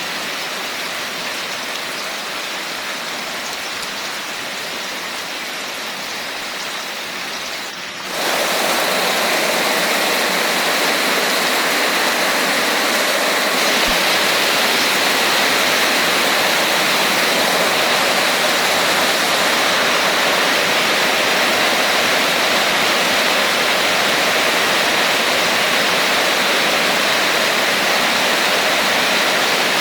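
Steady rain falling as a dense, even hiss. Just before eight seconds in it dips briefly, then becomes abruptly louder and heavier and holds there.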